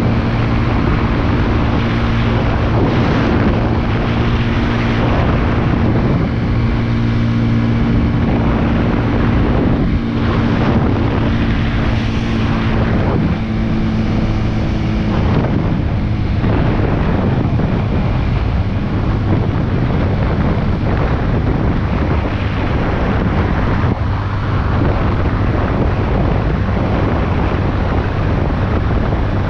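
Big Boy SuperLight 200cc motorcycle engine running at a steady cruise, with heavy wind noise on the microphone. The engine drone shifts about halfway through.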